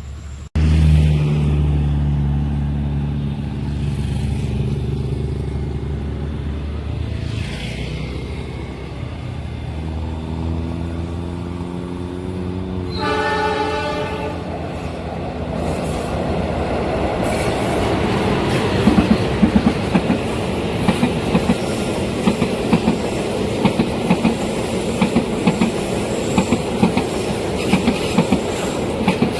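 Train passing at a level crossing: the locomotive's engine runs with a low drone, the horn sounds once about halfway through, and then the cars' wheels click over the rail joints in a steady rhythm.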